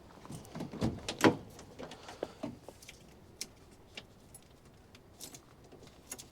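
Car door and ignition key being handled: scattered clicks and knocks, the loudest about a second in, with keys rattling.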